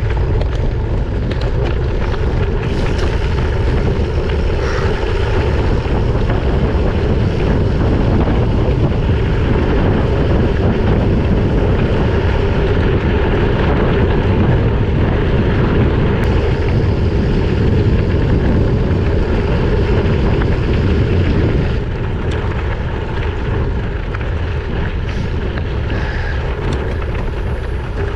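Steady rumble of wind buffeting an action camera's microphone while riding a bike, mixed with riding noise. It eases slightly about 22 seconds in.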